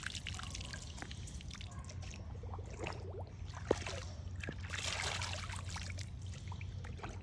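Water trickling and pouring, swelling into a heavier pour a little past halfway, as water runs over from a bucket in a homemade pipe toilet. A single sharp tap sounds about halfway through.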